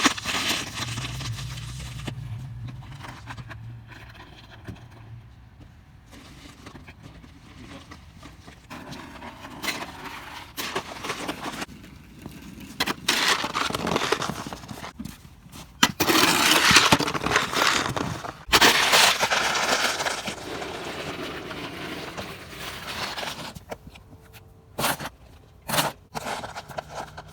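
Snow shovel scraping and pushing snow across a driveway in irregular strokes, the loudest and longest pushes about two-thirds of the way through, with a few short sharp scrapes near the end.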